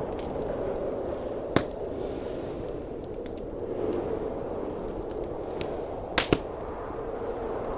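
Blizzard wind howling steadily under a crackling log fire, with a sharp pop about a second and a half in and two quick pops just after six seconds.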